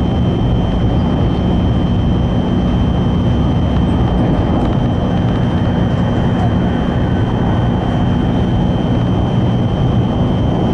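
N700-series Shinkansen train running on the line, a steady rumble and rush of running noise heard inside the passenger car, with a faint steady high whine over it.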